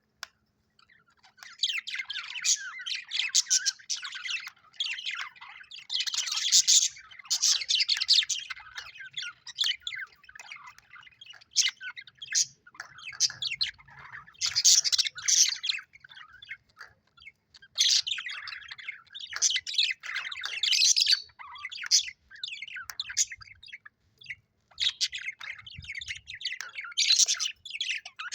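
Budgerigars chirping and warbling in a busy chatter of quick high chirps, coming in bursts with short pauses, starting about a second and a half in; the chatter of happy, contented budgies.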